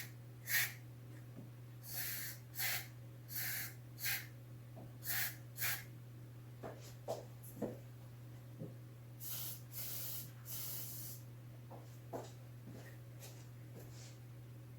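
Aerosol can of white lithium grease sprayed in short hissing spurts onto a dry plastic steering-column bushing, to quiet a squealing steering column. About seven quick spurts come in the first six seconds, then three longer sprays about nine to eleven seconds in, over a steady low hum.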